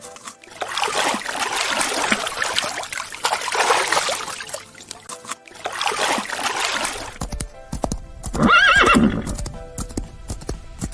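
A horse neighs once, a loud, wavering call that falls in pitch, about eight seconds in. Before it come several seconds of noisy, breathy sound. Quiet background music runs underneath.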